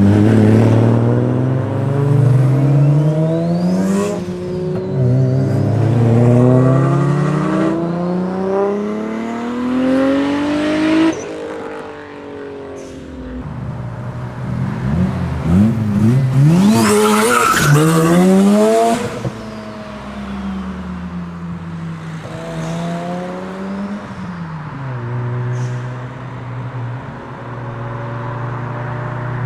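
Mazda RX-7 FD3S's street-ported 13B rotary engine with a BorgWarner S366 single turbo and shotgun exhaust, accelerating hard through three gears, its pitch climbing and dropping back at each shift. After a brief lull about 11 seconds in it pulls hard again, with a burst of harsh, hissing noise near the top. It then settles to lower, roughly steady running.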